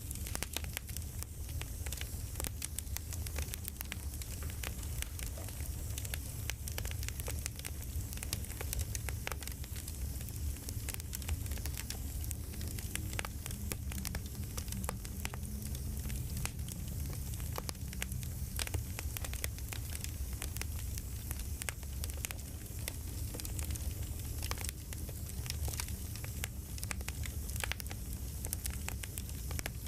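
Campfire crackling: many small irregular snaps and pops over a steady low rumble.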